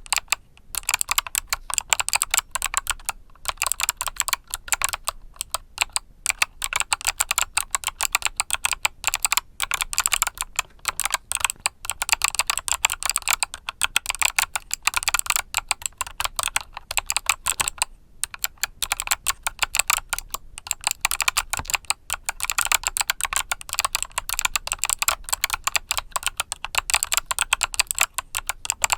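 Continuous typing on a mechanical keyboard with Kailh Box Summer switches: a fast, steady stream of sharp key clicks with only brief pauses.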